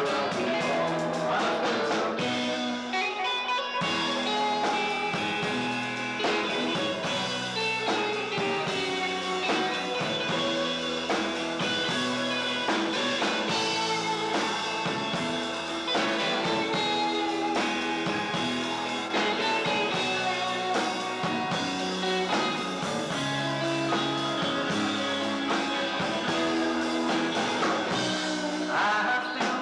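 Rock band music: guitar over bass and drums in an instrumental passage, with gliding lead-guitar lines.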